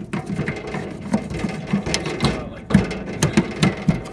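Irregular metallic clicking and scraping of hand work on the sheet-metal underside of a refrigerated display case, as a stubby screwdriver loosens the screws holding the defrost heater.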